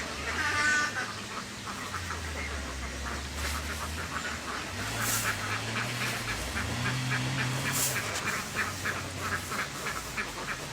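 A large flock of domestic ducks quacking, many overlapping calls in a dense chatter, with one louder call near the start. A low hum runs underneath, shifting in pitch a few times.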